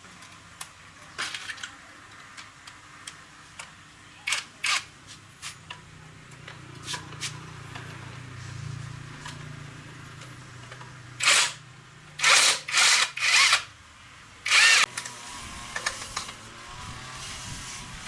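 Workshop tool noises: light clicks and knocks, with short bursts of noise each about half a second long, two about four seconds in and a cluster of four or five later on.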